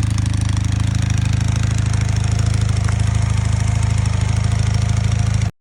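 Honda CB400 Hawk motorcycle's parallel-twin engine idling steadily, revived after years of sitting; the sound cuts off suddenly near the end.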